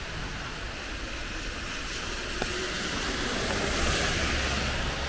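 Steady rain hiss on a wet city street with a low traffic rumble underneath; the hiss swells around four seconds in, like tyres of a passing vehicle on wet pavement.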